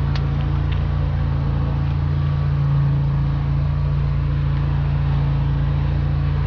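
High-pressure drain jetting machine's engine and pump running steadily while flushing a sewer line, a constant low hum that does not change.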